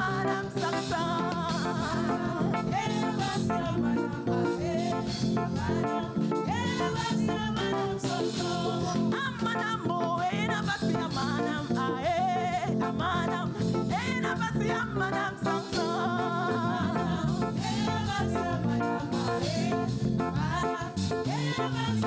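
Live church praise music: an upbeat, steady-tempo song with a singer's voice carried over the band.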